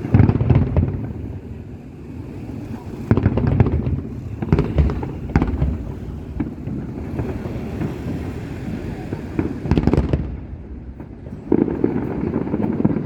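Aerial fireworks bursting: a run of deep booms every second or few, with a continuous rumble and crackle between them.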